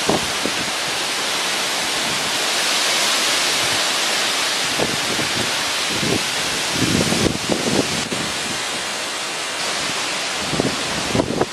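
Tropical-storm winds gusting hard: a loud, steady rushing hiss, with wind buffeting the microphone in irregular low bursts several times.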